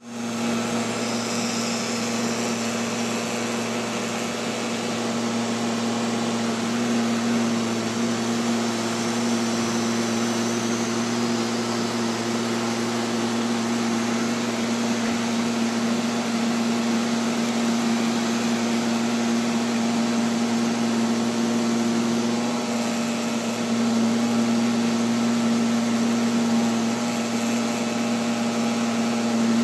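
Neato XV-11 robotic vacuum cleaner running, heard from a camera mounted on the robot: a steady motor hum with a strong low tone, several higher tones and a hiss.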